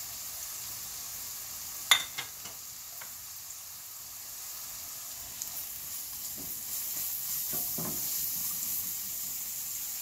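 Onions and freshly added ground spices sizzling in hot oil in a nonstick kadai while a wooden spatula stirs them. A sharp knock about two seconds in is followed by a few light clicks, and scraping stir strokes come later.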